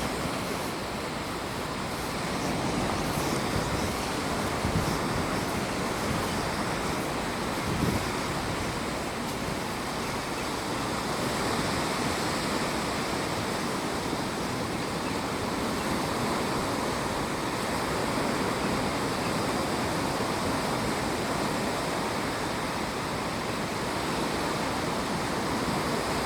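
Steady rushing of ocean surf, swelling and easing slowly.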